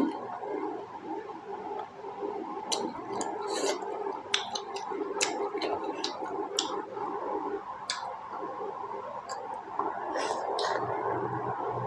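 Close-up eating sounds of pork momos being chewed: wet mouth clicks and smacks at irregular moments, with a single knock right at the start.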